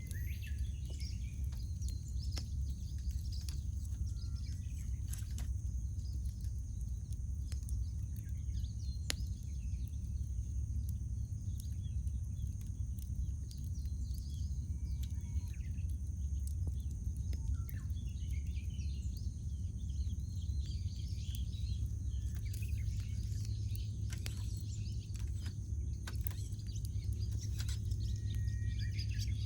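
Wood campfire crackling with scattered sharp pops, while small birds chirp and call throughout. A steady low rumble runs underneath.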